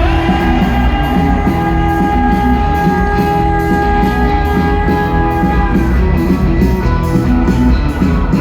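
Rock band playing live between sung lines, with a long held high note for about six seconds over bass and drums and an even cymbal beat.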